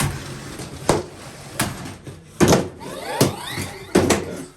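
Lego combat robots clattering and knocking against each other and the arena: about five sharp knocks, spaced roughly two-thirds of a second apart. A brief whine slides in pitch around three seconds in.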